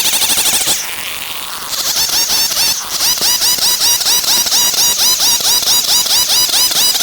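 STIHL 070 two-stroke chainsaw cutting timber into boards under load, with a fast, pulsing rhythm. It eases off for about a second early on, then goes back into the cut.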